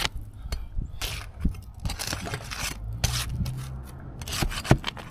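Scraping and rubbing on roof shingles as a shingle is worked up to reach the nails beneath it, in irregular strokes with a few sharp clicks near the end.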